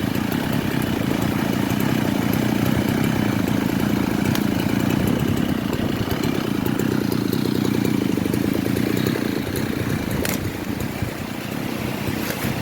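Large two-stroke Husqvarna chainsaw running steadily, easing off slightly about ten seconds in, with scattered sharp ticks over it.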